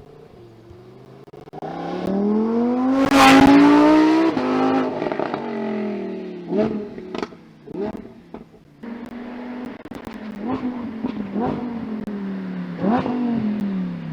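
Lamborghini Huracán Tecnica's naturally aspirated 5.2-litre V10 revving: its pitch climbs to a loud peak about three seconds in, then falls as it eases off. Several short, sharp throttle blips follow, and the pitch winds down again near the end.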